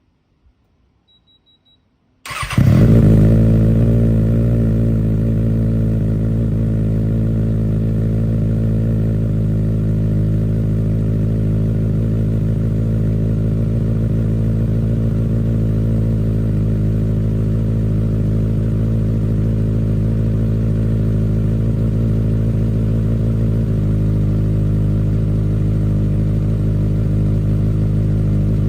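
2024 Kawasaki Ninja ZX-6R's 636 cc inline-four, through an aftermarket exhaust, starts up about two seconds in after a short beep. It catches with a brief rise in revs, then settles to a steady idle.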